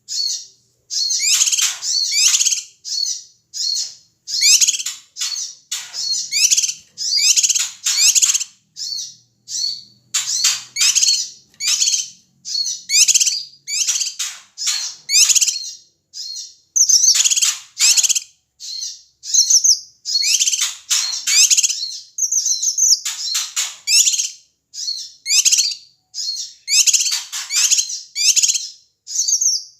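Cucak kinoi (Sumatran bulbul) singing a loud, rapid, chattering song in short phrases of fast notes with brief gaps between them.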